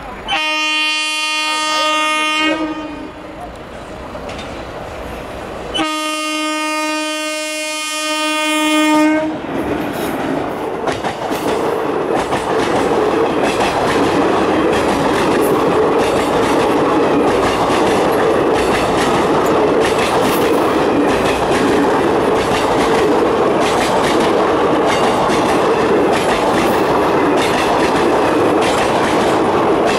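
Electric locomotive horn sounding two long blasts, the second starting about six seconds in and held for about three and a half seconds. Then the passenger coaches of the express pass close by: a loud steady rumble with a rhythmic clickety-clack of wheels over rail joints.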